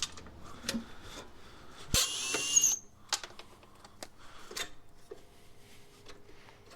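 A power drill-driver runs in one short burst about two seconds in, with a rising whine, as a scrap item is taken apart. Scattered clicks and knocks of parts being handled come before and after it.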